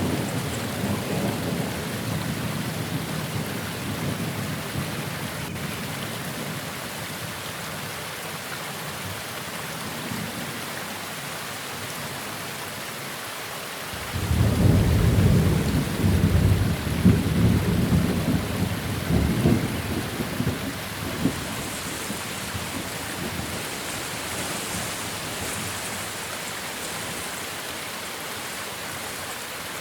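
Steady rain with rolling thunder. A rumble dies away over the first several seconds, then a new peal of thunder breaks about halfway through and rumbles for several seconds before fading.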